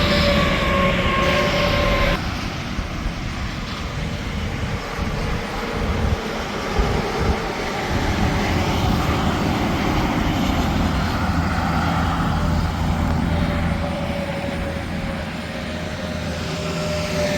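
Trucks and traffic passing on an interstate highway: a steady tire and engine drone. In the first two seconds a passing truck's whine falls in pitch, then the sound drops abruptly, and near the end another whine slides down as a vehicle passes.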